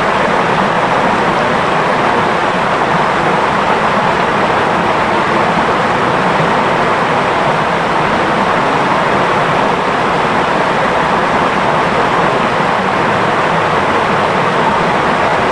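Clear river flowing steadily: a continuous, even rush of babbling water with no breaks.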